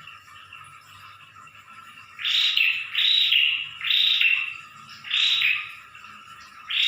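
Prinia (prenjak) giving a rapid run of loud, harsh calls, five in all, each about half a second long and roughly a second apart, starting about two seconds in. Under them runs a faint steady high-pitched background.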